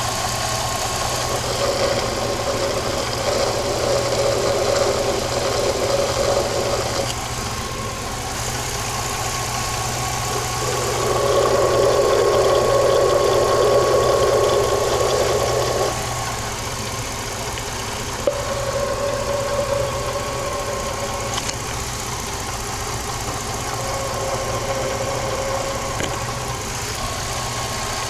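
Idling engine heard up close through a screwdriver-and-funnel listening tool held against the pulleys: a steady low hum and a whir whose tone shifts several times as the tip moves between pulley wheels. The owner judges the pulley bearings free of bad-bearing noise.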